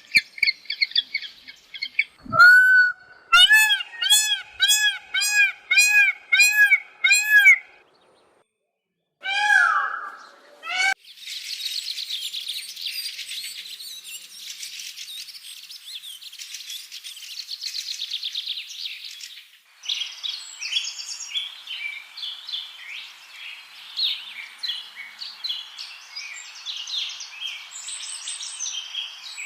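Birds calling in a few separate stretches: first a run of about eight loud, arching calls roughly half a second apart, then dense high chirping of many birds, then a busier mix of short chirps and calls.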